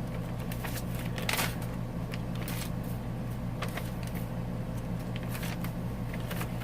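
Paper rustling and light taps as the pages, tags and envelopes of a handmade paper journal are handled, with one louder rustle about a second and a half in. A steady low hum runs underneath.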